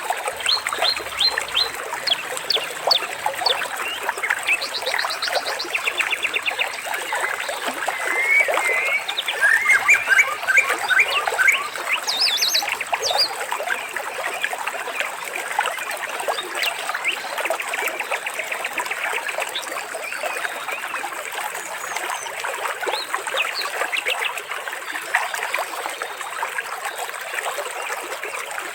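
A dense chorus of birds chirping and trilling over trickling water. Rapid calls overlap throughout, with a cluster of gliding whistles about eight to ten seconds in.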